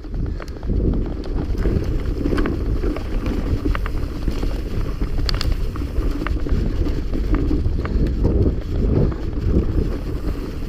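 Mountain bike ridden fast over rough trail: heavy wind buffeting on the camera microphone, with scattered rattles and clicks from the bike and stones on the bumps.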